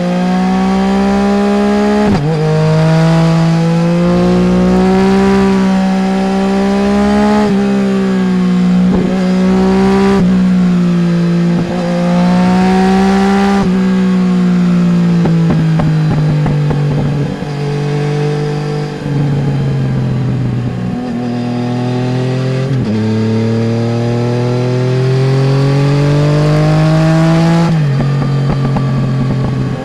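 Yamaha Tracer 900 GT's three-cylinder engine through a full Roads Italia aftermarket exhaust, under way on the road. The engine note holds with several brief dips in the first half, falls away gradually in the middle as the bike slows, then rises again under acceleration near the end.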